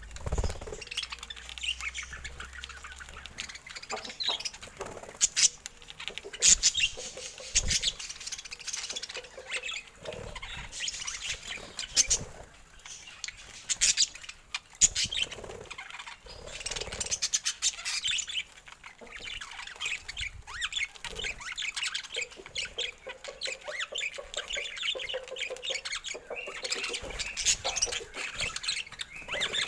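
Budgerigars chirping and chattering continuously, with scattered sharp clicks.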